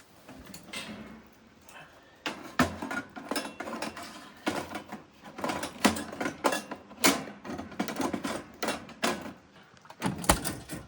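Irregular knocks, clicks and rattles of a camp oven door and a baking pan being handled as the stromboli is put in to bake.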